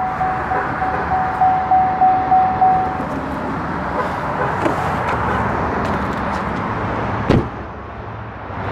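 A GMC Yukon Denali's electronic warning chime sounds as a steady, pulsing tone and cuts off about three seconds in. A steady hiss continues throughout, and a single sharp thump comes about seven seconds in.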